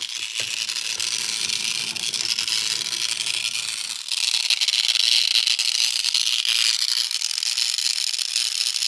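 Battery-powered Thomas toy train's motor and gearbox running with a loud, steady rattling whir, louder about four seconds in. The noise comes from a worn gear (cog) in the drive.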